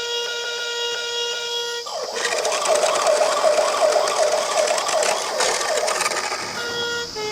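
Ambulance siren sound, a fast warbling wail of about three cycles a second that starts about two seconds in, after a steady buzzing tone.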